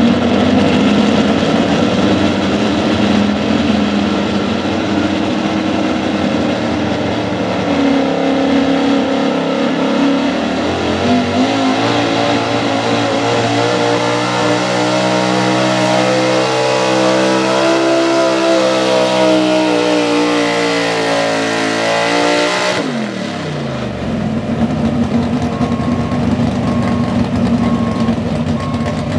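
Big-block V8 of a 4x4 pulling truck running hard under load. Its note climbs about a third of the way in and is held high and loud, then drops sharply near the end as the throttle comes off, settling into a lower steady running.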